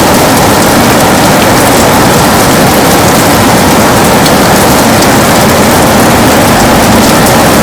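Heavy rain beating steadily on a window, a dense, even hiss with many fine drop ticks.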